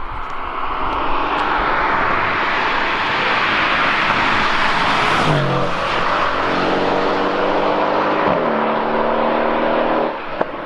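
Mercedes-AMG C63's 4.0-litre V8 biturbo car driving by: a rising rush of road and wind noise peaks about halfway through, then the V8 engine note comes through and steps in pitch a little past eight seconds in, as with a gear change.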